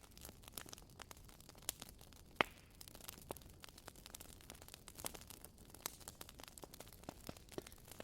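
Burning firewood crackling: irregular sharp pops and snaps over a soft, steady hiss, with one louder pop about two and a half seconds in.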